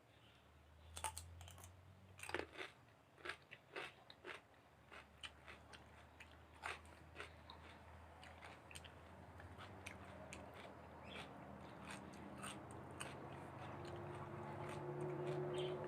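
Close-miked chewing and biting of flame-grilled meat, with many sharp crunchy clicks, thickest in the first half. A low steady hum grows louder toward the end.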